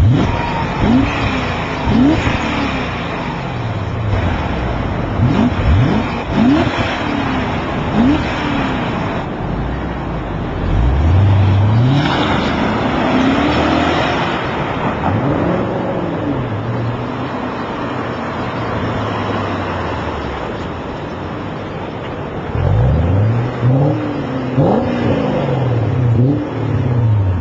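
BMW E39 M5's V8 revved through its exhaust while stationary: a run of quick throttle blips that rise and fall, then one long rev held high for a few seconds and falling back to idle, then more blips near the end.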